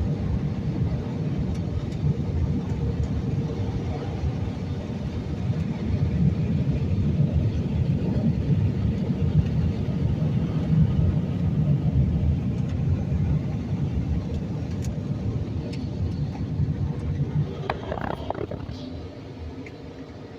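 Automated car wash tunnel machinery heard from inside a car: a loud, steady rumble with a steady hum, fading over the last few seconds.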